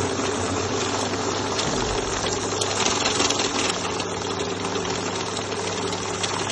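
Accucon banknote counting machine running, starting abruptly and going on steadily with a dense rapid rattle over a motor hum.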